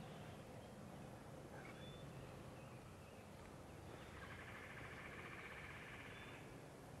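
Faint bird calls in quiet woods: a couple of short high chirps, then a rapid trill about four seconds in that lasts two to three seconds.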